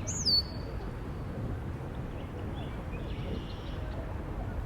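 A bird gives one sharp, loud call falling steeply in pitch just after the start, then fainter bird chirps come about three seconds in, over a steady low background rumble.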